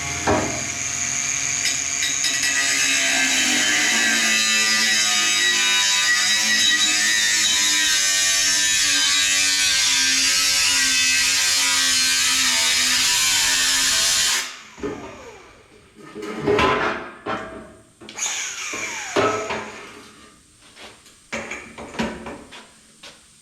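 Power tool cutting through stainless steel exhaust tubing, running steadily under load with a wavering pitch, then stopping abruptly about fourteen seconds in. Scattered metal clinks and handling knocks follow.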